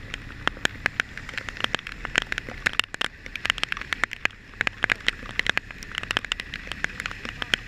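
Raindrops striking a hard surface close to the microphone in quick, irregular sharp ticks, over a low steady rumble.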